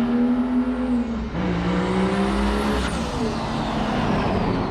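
A vehicle engine pulling hard under acceleration. Its pitch climbs and then drops about 1.3 s in and again near 3 s, as with gear changes, and a faint high whistle rises and falls above it.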